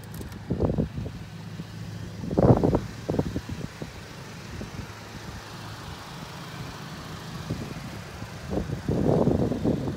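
Volkswagen MK7 GTI's turbocharged four-cylinder engine idling with a steady low hum, its lights switched on. A few louder bursts of noise come over it, the strongest about two and a half seconds in and near the end.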